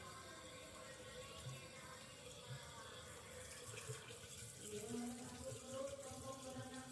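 Water running from a tap, with a faint steady pitched tone joining in about halfway through.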